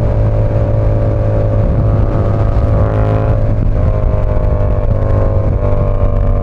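Yamaha R7's parallel-twin engine running at a steady cruise, its pitch holding nearly level with small shifts about four and five and a half seconds in.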